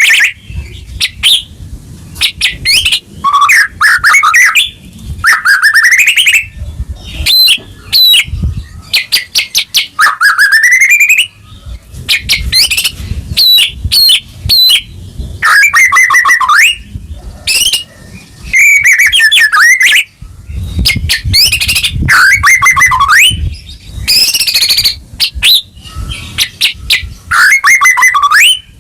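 White-rumped shama (murai batu) singing loudly and continuously: fast phrases of rising whistles, rapid trills and harsh notes, one after another with short gaps.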